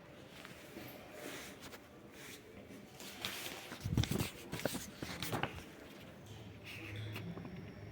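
Rustling and handling noise with a run of irregular knocks and clicks, loudest with a low thump about four seconds in.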